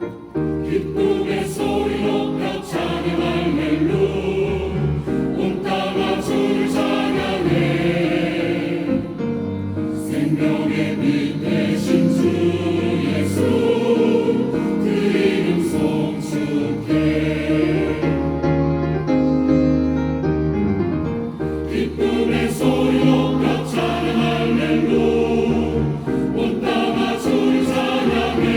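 Church choir singing a Korean gospel anthem with keyboard accompaniment.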